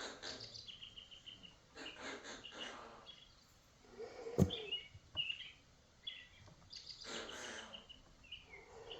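Pet birds chirping and calling in short, high phrases, with a single sharp knock about four and a half seconds in.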